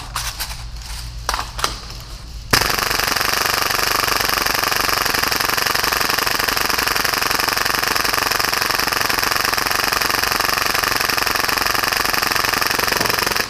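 Full-auto airsoft Hi-Capa pistol (a Tokyo Marui Hi-Capa modified for about 30 rounds per second) firing one long unbroken burst of rapid BB shots. A few handling clicks come before it, the burst starts about two and a half seconds in, and it cuts off suddenly near the end.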